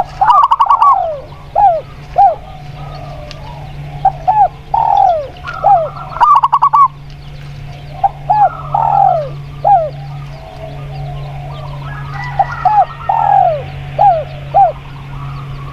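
Zebra dove (perkutut) and spotted dove (tekukur) cooing: clusters of short falling notes with two quick rattling trills, over a steady low hum.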